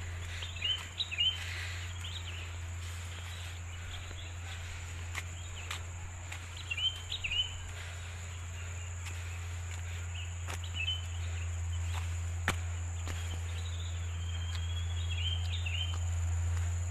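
Forest ambience: an insect trilling on one steady high note, with birds chirping in short phrases several times, over a steady low hum and a few faint clicks.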